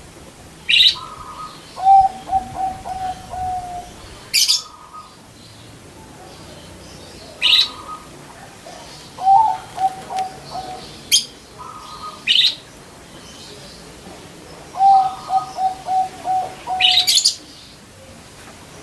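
Budgerigar calls in a repeating sequence: a sharp high chirp, then a lower pulsing trill lasting about two seconds, recurring every three to four seconds.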